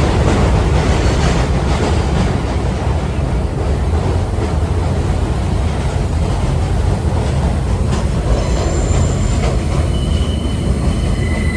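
A 1930s R1-9 subway train running on the rails, with a steady heavy rumble and faint clicks of the wheels. Thin high squeals come in near the end.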